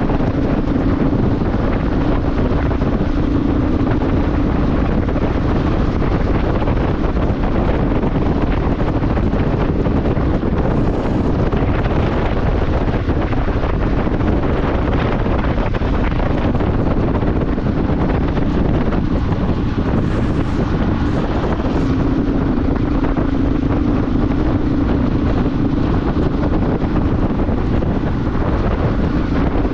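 Wind rushing over the microphone of a moving motorcycle, with the engine's steady drone underneath, stronger near the start and again in the last third.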